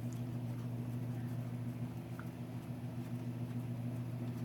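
A steady low machine hum, with a faint tick about two seconds in.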